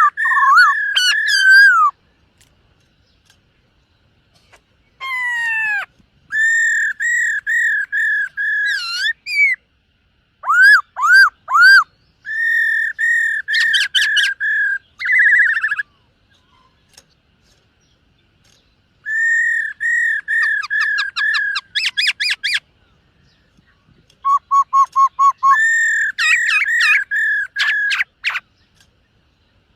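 Black-throated laughingthrush singing: loud whistled phrases of quickly repeated notes, some swooping, each phrase lasting a few seconds, with short silent pauses between them.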